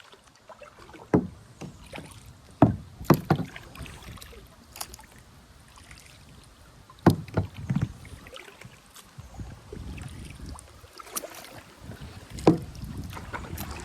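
Kayak paddling: the paddle dipping and knocking against the kayak at irregular intervals, several sharp knocks with splashes between them.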